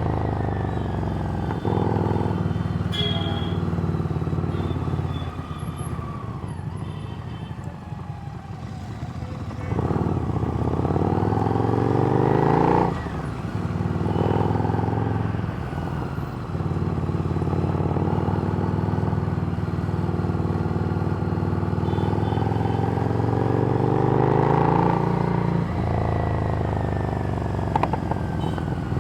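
Harley-Davidson Street Rod's V-twin through a Screamin' Eagle exhaust, under way: the engine note climbs as it pulls through the gears and drops sharply at each shift. It eases off for a few seconds about a quarter of the way in.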